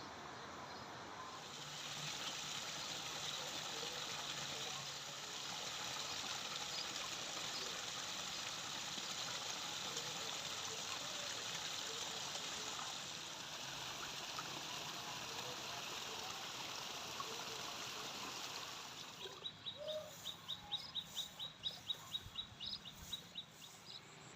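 Water flowing steadily in a rice-field stream or channel. About three quarters of the way through the rushing drops away, and a rapid run of high ticking calls from a bird follows, about six a second.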